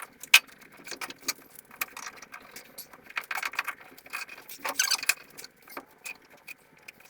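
Irregular clicks, knocks and light metallic rattles of hand work with tools and timber, with a longer scrape or rattle about three and five seconds in.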